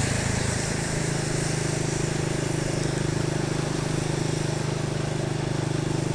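Motorcycle engine running steadily while riding, with wind and road noise; its pitch shifts slightly about a second in, then holds.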